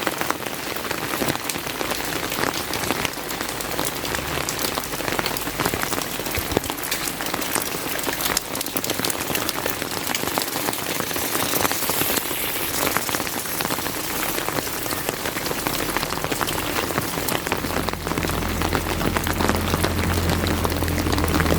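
Steady heavy rain, a dense hiss full of individual drop hits. A low steady engine hum comes in near the end.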